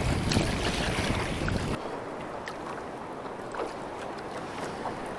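Sea water washing around a waveski out past the surf, with wind rumbling on the microphone for the first couple of seconds, then a steadier wash of water and wind with a few small splashes.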